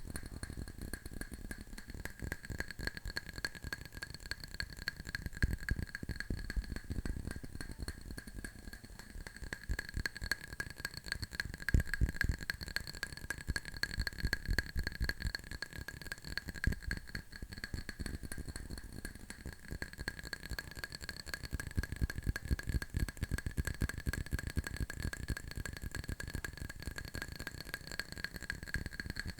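Fingernails tapping fast on an object, a dense run of small clicks that swells louder in stretches, over a faint steady high whine.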